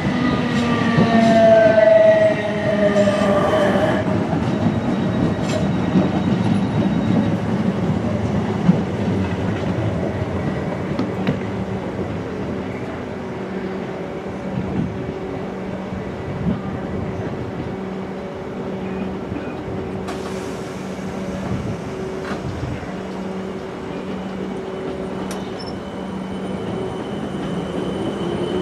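Train at a station platform: a falling whine over the first few seconds as it slows, then a steady hum with a few sharp clicks, and a rising whine near the end as a train accelerates away.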